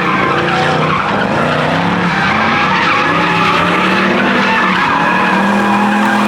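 A car spinning its tyres, which screech without break while the engine is held at high revs that rise and fall.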